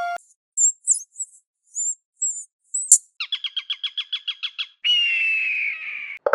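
Bird calls: a run of short, very high chirps, then a rapid trill of about nine notes a second, then one long whistle that falls slowly in pitch.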